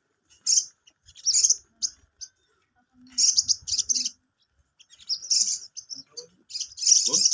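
Sogon (a sunbird) singing: rapid, high-pitched twittering chirps in short bursts with gaps between, turning into a dense, unbroken twitter near the end.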